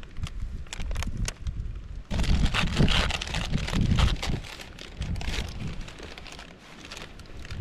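MRE plastic packaging crinkling and rustling as it is handled, with scattered clicks at first and a denser, louder stretch of crinkling from about two seconds in.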